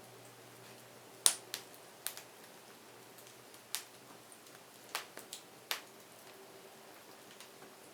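Wood fire crackling: irregular sharp pops and snaps over a faint steady hiss. The loudest pop comes about a second in, and a quick cluster of snaps comes around five seconds in.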